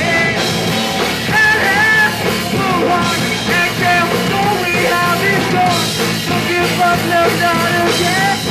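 Punk rock band playing live at full volume: a dense wall of electric guitars and drums with a bending melodic line on top.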